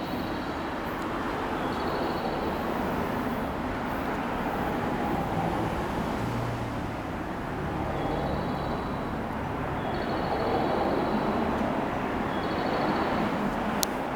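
Freight train running past: a steady rumble and rush of wheels on rails, with a faint high tone coming and going several times.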